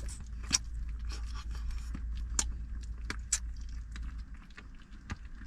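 A dozen or so light clicks, clinks and scrapes of a pot or food container being handled, over a steady low rumble that fades out about four and a half seconds in.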